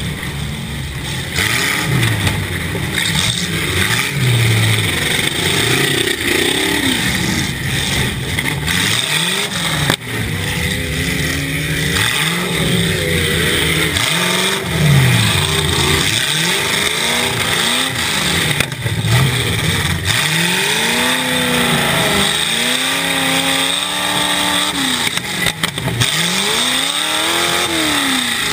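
Demolition derby car's engine, heard from inside the cab, revving up and falling back again and again as the car drives back and forth, faster in the second half. There are a few sharp bangs along the way.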